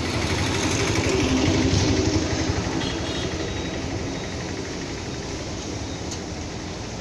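1994 Hindustan Contessa's engine idling steadily, heard at the exhaust tailpipe. It is loudest about one to two seconds in, then a little quieter.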